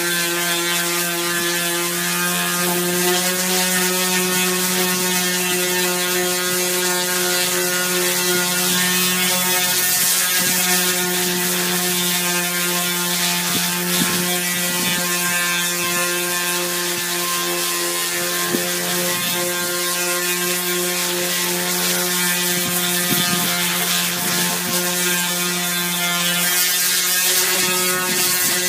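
Electric power sander running steadily at one pitch against the fiberglass hull, a constant motor whine over the hiss of the abrasive, with a few small knocks along the way.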